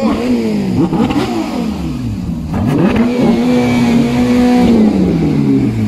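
Ferrari 812 Superfast's V12 being revved while the car stands still. Several quick blips rise and fall, then the revs are held steady for about a second and a half before dropping back toward idle near the end.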